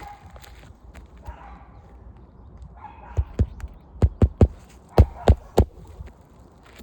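Nails being driven to fasten a new asphalt roof shingle: about eight sharp strikes in quick groups of two or three, starting about three seconds in.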